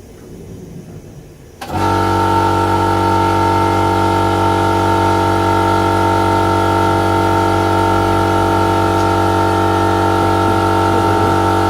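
Electric piston air compressor starting abruptly about two seconds in, then running steadily with a constant hum and whine.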